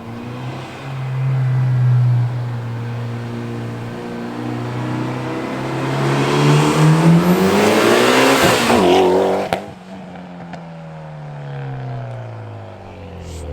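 Mitsubishi Lancer Evolution X's turbocharged 2.0-litre four-cylinder, breathing through a catless downpipe and a custom 3-inch exhaust, accelerating hard, its pitch climbing and the sound growing louder and rougher for about eight seconds. About nine and a half seconds in the throttle is lifted suddenly and the revs fall away steadily.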